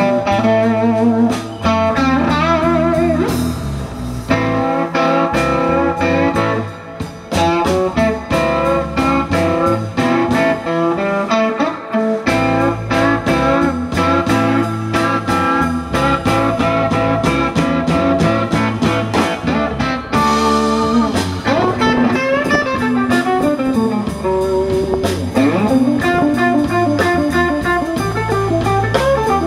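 Live blues band playing an instrumental passage, led by electric guitar with bending notes over bass and drums.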